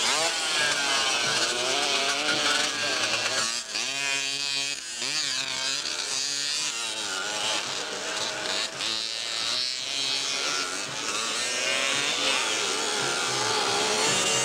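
Several two-stroke motocross motorcycles racing, their engines revving and their pitches overlapping and rising and falling as they accelerate and shift.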